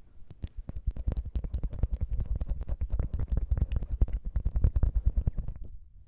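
Tongue fluttering: a fast, even run of wet mouth clicks, roughly ten a second, each with a soft low thump, stopping about half a second before the end.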